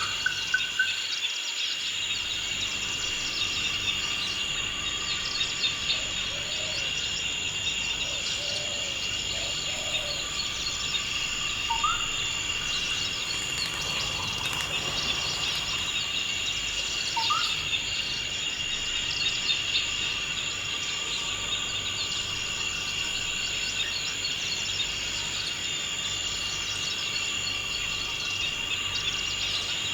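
Forest insect chorus trilling steadily without a break, with a few short rising bird chirps about twelve and seventeen seconds in.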